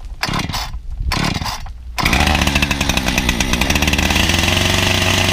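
Chainsaw being started: a few short irregular bursts, then the two-stroke engine catches about two seconds in and runs steadily.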